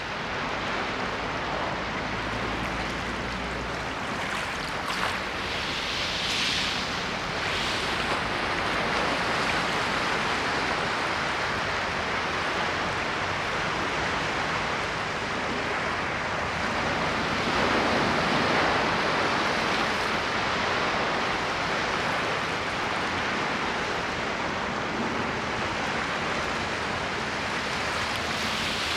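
Ocean waves washing on a shore in a continuous hiss, swelling slightly louder a few times as waves break.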